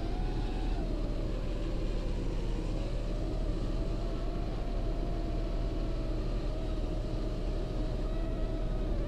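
A 5-inch FPV racing quadcopter's brushless motors and propellers whining, the pitch dipping a little and recovering with the throttle, over a heavy low wind rumble.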